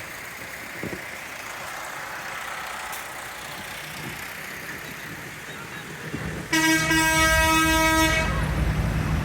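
A tractor's horn gives two toots back to back about six and a half seconds in, over the rumble of its engine as it draws near. The engine keeps running after the horn stops.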